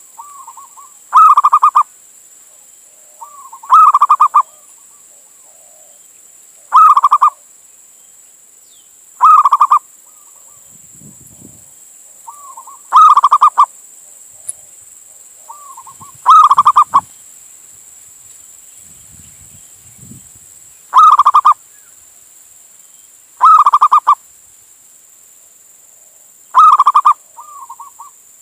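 Male zebra dove (perkutut) cooing, a male's call to a female: a short rolling call repeated about nine times, every two to four seconds, with a few soft notes between.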